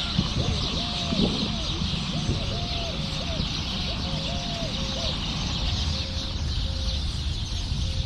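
Birds calling: a run of short, arched calls, about two a second, that thin out about five seconds in, over a steady high-pitched hiss and low rumble.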